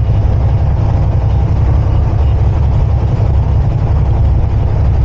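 Steady low drone of a semi-truck's diesel engine with road noise, heard from inside the cab while driving.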